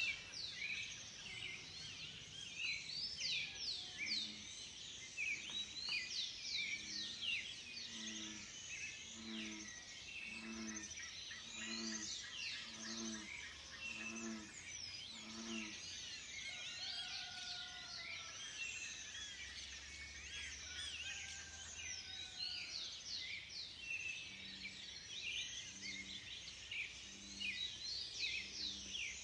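Dawn chorus: many birds chirping and calling at once in quick, overlapping high notes. For two stretches a low call repeats about once a second beneath them.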